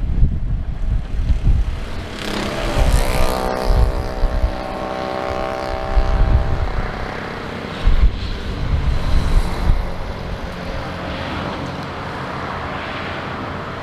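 Aircraft engines passing close by: a broad rush with a high whine of several steady tones that comes in about two seconds in and fades out around six and a half seconds, leaving a lingering engine rush. Wind buffets the microphone throughout.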